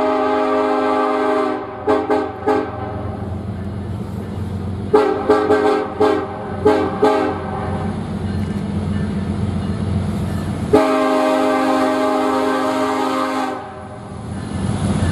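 Diesel locomotive air horn sounding a chord in a series of blasts: a held blast, a few short toots, a quick run of short toots, then a long blast near the end, over the steady low rumble of the train.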